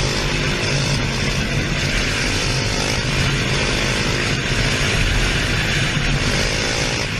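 Motorcycle engine running steadily under a continuous rushing noise, its pitch drifting gently up and down.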